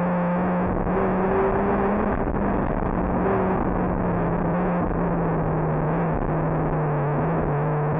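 Rally car engine running hard under load, heard from inside the cabin, its note holding near one pitch and stepping down and back up a few times as the revs change, over a dense haze of road and tyre noise.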